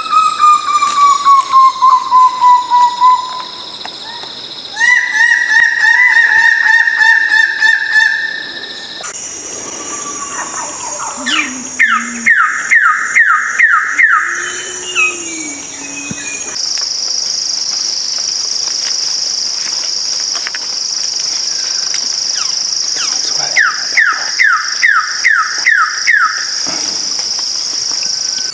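Birds calling in four runs of quick repeated notes: the first slides down in pitch, the second stays level, and the last two are short descending strokes. Behind them runs a steady high insect trill that changes pitch abruptly twice.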